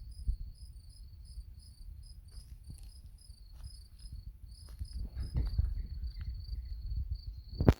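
Crickets chirping in a steady, even rhythm of short high chirps over a low rumble. A sudden thump near the end.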